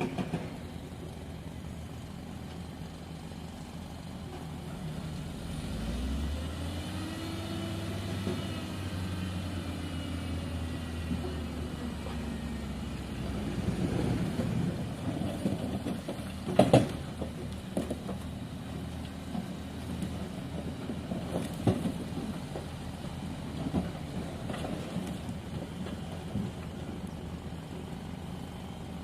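A heavy construction machine's diesel engine running, picking up revs with a rising pitch about six seconds in. Several sharp knocks or clanks come over the engine noise, the loudest just past the middle.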